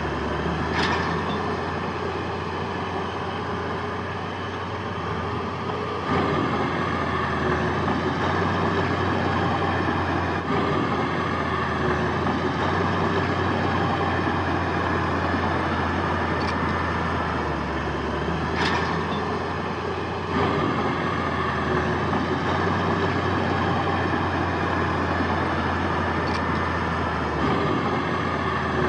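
Heavy diesel earthmoving machinery, a bulldozer and dump trucks, running continuously under load with a steady low hum. The engine noise gets louder at about 6 seconds and again at about 20 seconds. A few brief sharp high clicks of metal come through, one about a second in and another about two-thirds of the way through.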